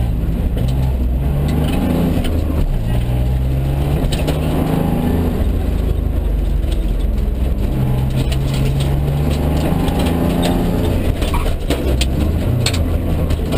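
A Mitsubishi Colt CZ3 rally car's engine, heard from inside the cabin, revs hard and drops back in pitch again and again as the driver accelerates and changes gear. A few sharp clicks or knocks come near the end.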